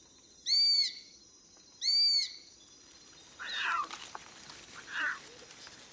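A serval calling: two short, high, arching meow-like calls about a second and a half apart, followed by two fainter, rougher calls.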